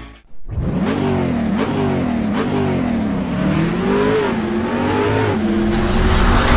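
Car engine accelerating hard, its pitch climbing and dropping back again and again as it revs up through the gears, then holding steadier near the end.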